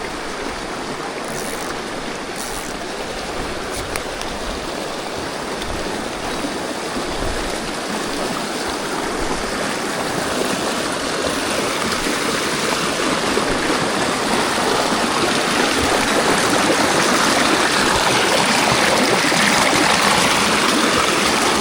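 Mountain stream water rushing over rocks, a steady wash that grows gradually louder.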